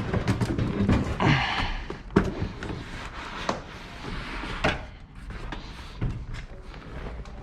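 Unbolted car seat being wrestled out of a 1977 Mercedes 450 SLC: clunks, knocks and scraping of the seat frame, with sharper knocks about two, three and a half and nearly five seconds in.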